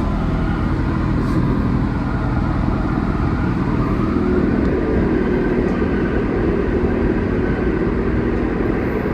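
Inside an Alstom NS-74 rubber-tyred metro car running between stations: steady rolling rumble with the hum of the traction equipment, and a whine that rises in pitch from about three seconds in as the train picks up speed.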